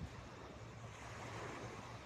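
Steady, fairly quiet rushing outdoor noise with no distinct events.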